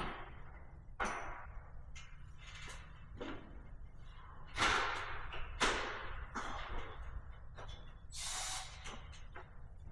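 Hand tools and metal parts knocking and clinking during work on a car engine bay: a series of separate sharp knocks, the loudest about halfway through, and a short scraping rasp near the end.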